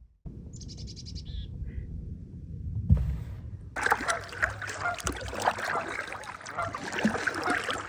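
Wind rumbling on the microphone, with a short run of rapid high bird calls near the start; from about four seconds in, a flock of geese honking together.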